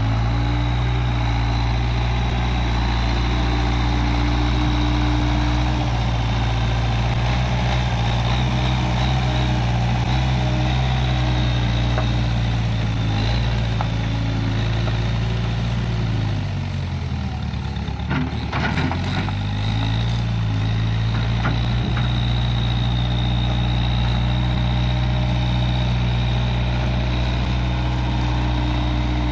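Case 580G backhoe loader's engine running steadily, with a thin high whine over it. A little past the middle its pitch sags for a couple of seconds, then it picks back up to the same steady note.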